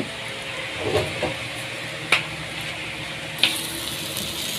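Steady sizzling of corn tortillas frying in oil in a skillet, with a few sharp clicks of a metal utensil against a pot. The sizzle turns brighter and louder a little past halfway.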